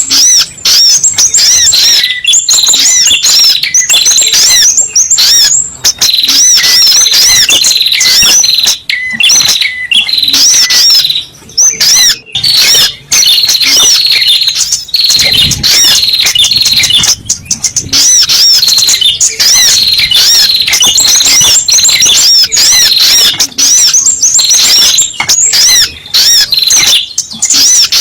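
Sogok ontong (spiderhunter) calls used as a bird-catching lure recording: a loud, rapid, nearly unbroken stream of short, sharp, high chirps, easing briefly about halfway through.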